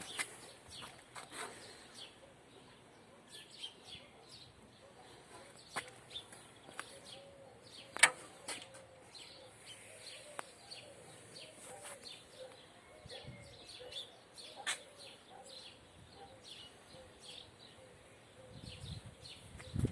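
Quiet outdoor ambience with scattered sharp clicks, the loudest about eight seconds in, and faint chirping calls; no motor is running.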